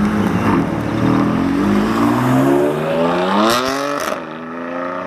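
BMW M4's twin-turbo inline-six accelerating hard away, its pitch climbing steadily through one gear for about four seconds. Then it drops sharply at an upshift, with a couple of sharp cracks from the exhaust, and pulls on again.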